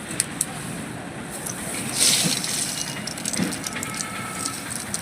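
Hot oil sizzling with a steady hiss and many fine crackles, swelling louder about two seconds in.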